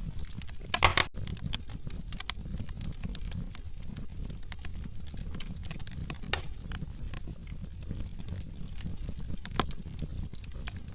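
Wood fire crackling in a fireplace: burning logs give off a steady scatter of small snaps and pops over a low rumble of flame, with a louder burst of pops about a second in and single sharper pops near the middle and near the end.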